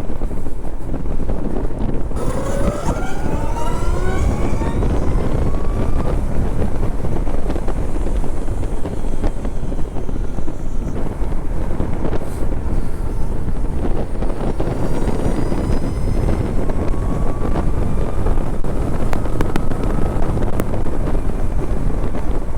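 Wind rushing over the microphone with road noise while riding a Zero electric motorcycle. About two seconds in, a whine with several tones rises in pitch for a few seconds as the bike accelerates, and a fainter rising whine comes later.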